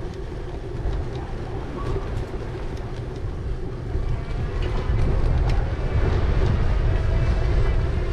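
Ride noise from an e-bike on the move: wind rumbling on the microphone over the hum of the tyres and motor, with small clicks and rattles. It gets louder about five seconds in.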